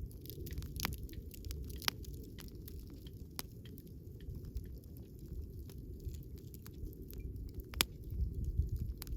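Wood fire crackling: scattered sharp pops and snaps over a low steady rumble, with the loudest pop near the end.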